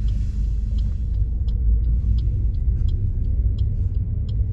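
Steady low road rumble of a moving car, heard from inside the cabin, with a few faint scattered clicks.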